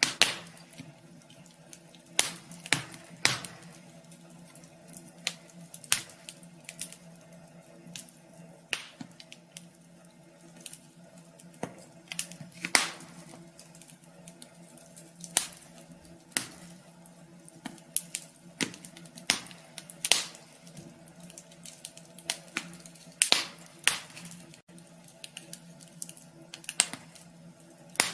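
Wood fire crackling in a wood stove: irregular sharp pops and snaps of varying strength, a few a second, over a faint steady hum.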